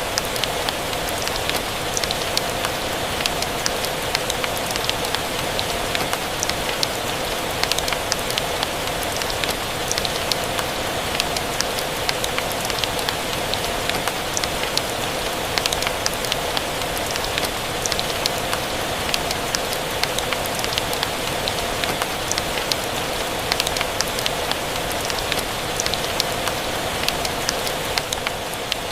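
Steady rain mixed with the crackling of a wood fire in a fireplace: an even hiss with frequent small, sharp pops scattered through it.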